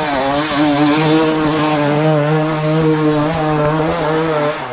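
Dirt bike engine held at high, steady revs with a slight wavering, the revs dropping off sharply at the very end.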